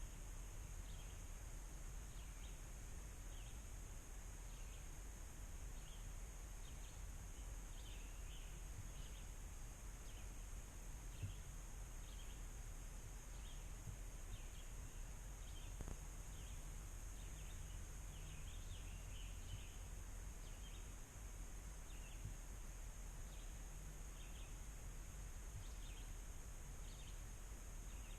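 Outdoor ambience of small birds chirping again and again, over a steady high-pitched hiss and a low rumble.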